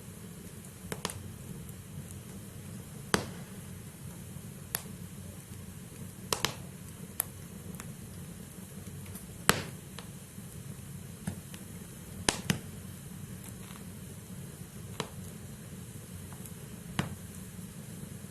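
Wood fire of burning logs crackling: a steady low rushing of the flames with sharp, irregular pops and snaps of the firewood every second or two, a few of them much louder than the rest.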